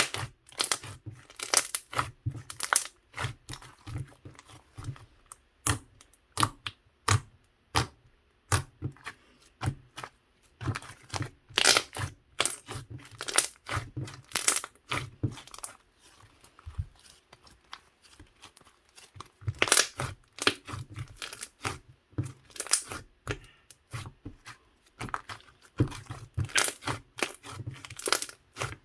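Slime being worked by hand: a run of irregular sticky crackles, pops and tearing snaps as it is pressed, stretched and folded.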